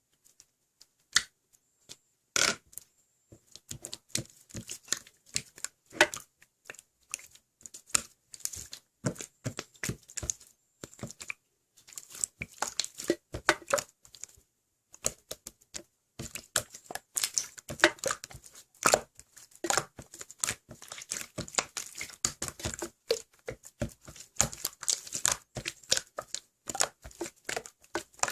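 Clear slime being squeezed and pressed by hand, giving a dense run of small sticky clicks and pops; only a few scattered clicks at first, then nearly continuous.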